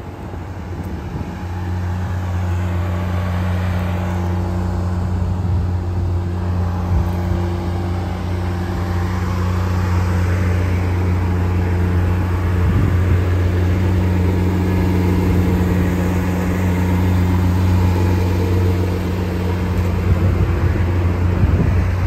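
Lamborghini Aventador Ultimae's 6.5-litre V12 idling steadily, a low even hum that comes in about a second and a half in.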